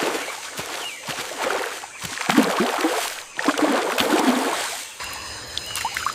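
River water gurgling and splashing in uneven surges.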